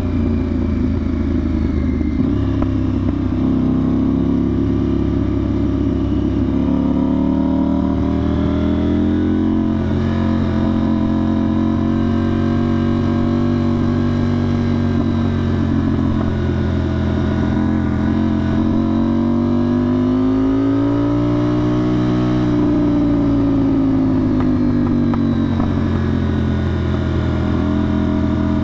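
2025 KTM 990 Duke's parallel-twin engine running through a budget aftermarket exhaust, with the catalytic converter kept, while riding. The engine note stays loud and steady, its pitch rising and falling gently, climbing to a peak about 22 seconds in and then easing back down.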